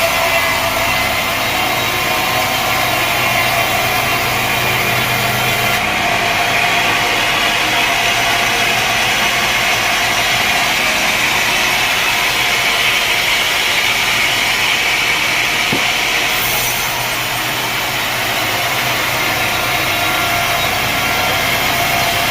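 Sawmill saw cutting through a log, a steady, continuous machine noise with a constant whine under it.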